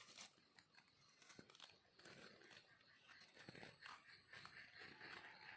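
Near silence with faint rustling and small crackles of dry forest leaf litter being handled while mushrooms are picked, and a faint thin high tone in the middle.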